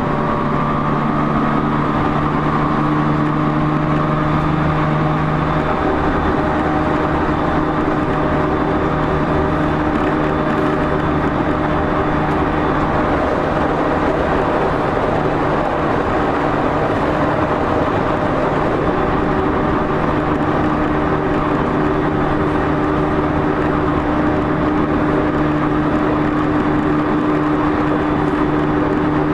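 Running sound inside the motor car of a JR East E231-0 series electric train between stations: loud traction-motor hum with steady tones over wheel-and-rail noise. The tones shift slightly about five to six seconds in.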